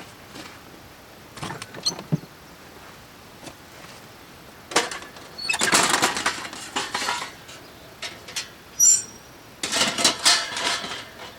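Objects being handled: scattered clicks and knocks, with two bursts of rustling and clattering, the first a little past halfway and the second near the end.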